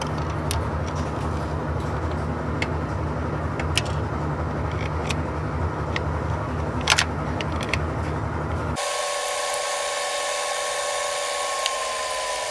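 Scattered sharp clicks and taps of hand tools being handled, over a steady low hum. About nine seconds in the hum cuts off abruptly and a steady whine takes over, slowly falling in pitch.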